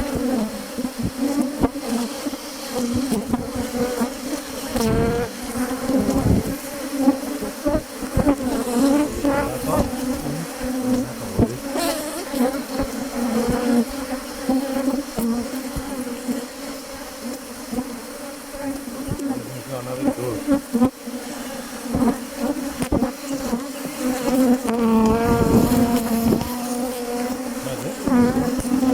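Honeybees buzzing in a dense, continuous hum around an opened Langstroth hive, the pitch wavering and gliding up and down as bees fly close past. A few brief knocks come through as well.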